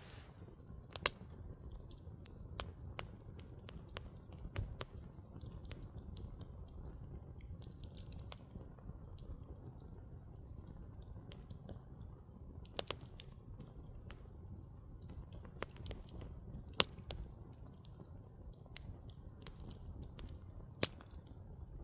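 Firewood burning: a low steady rumble with scattered sharp crackles and pops, a few of them louder than the rest.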